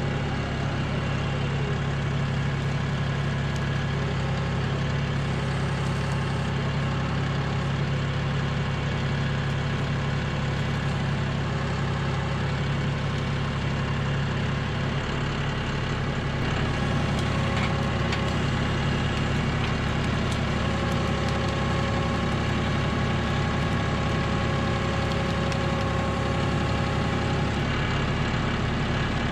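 John Deere 5075E tractor's diesel engine running at a steady speed, a little louder from just past halfway.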